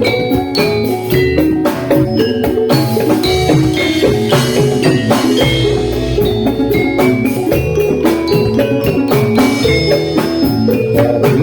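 Javanese gamelan playing jathilan dance music: struck metallophones ring out quick pitched notes over steady hand-drum strokes.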